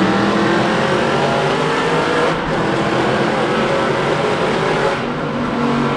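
Straight-piped Aston Martin Vantage exhaust, very loud and ear-piercing, holding a fairly steady pitch with small rises and falls, over road and wind noise.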